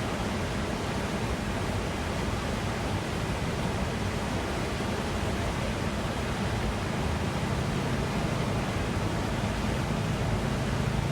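Small garden waterfall, water falling and running in a steady, unbroken rush.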